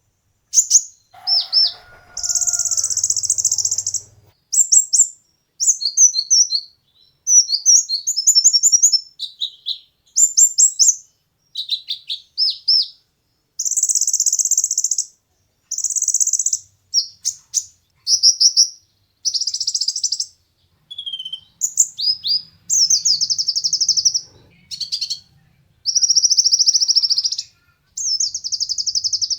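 Kolibri ninja sunbird (konin) singing. It gives high, rapid buzzy trills and quick chirps in bursts of about a second, repeated with short gaps.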